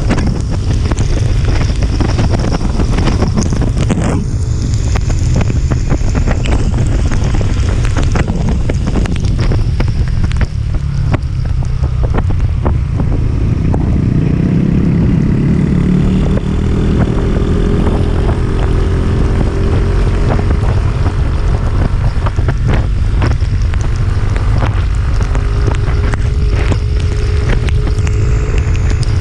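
Wind buffeting the microphone on a moving vehicle, with the engine's note rising in pitch about halfway through as it pulls harder uphill.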